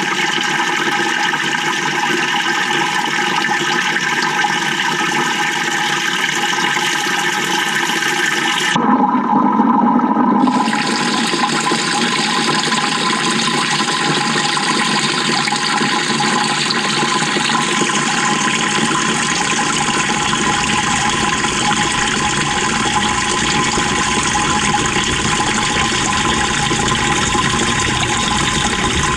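Water rushing and churning inside the drum of a 2018 GE GTW220ACKWW top-loading washing machine, heard from within the tub. It runs steadily, with a brief louder surge about nine seconds in.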